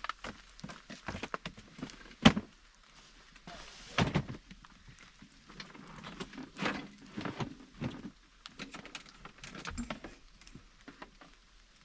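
Irregular knocks, clicks and clatter of things being handled, with a sharp loud knock about two seconds in.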